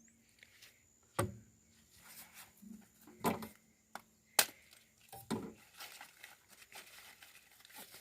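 Scattered light knocks and clicks with some rustling, the sounds of things being handled; the sharpest knock comes a little over four seconds in.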